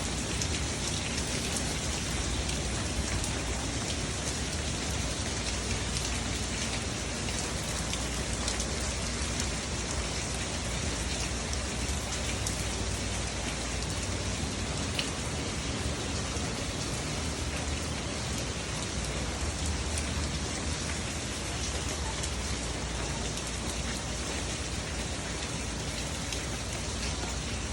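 Steady rain falling and pattering on surfaces, an even hiss with many small drop ticks that holds at the same level throughout.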